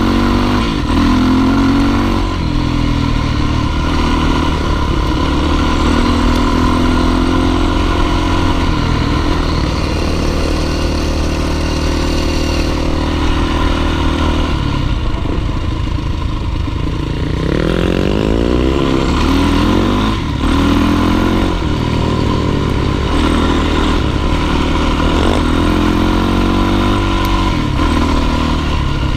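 Dirt bike engine running under load, its revs rising and falling as it climbs, with a few quick rising sweeps a little past halfway.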